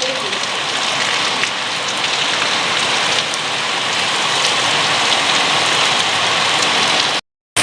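Steady, dense rain pouring down, an even hiss of falling drops. The sound cuts out abruptly for a moment near the end.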